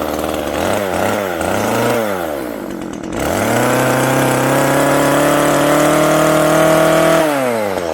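Old Komatsu Zenoah two-stroke chainsaw running: a few quick blips of the throttle, then held at full revs for about four seconds before dropping back to idle. It sounds a bit oily, which the owner thinks may be down to the fuel mix.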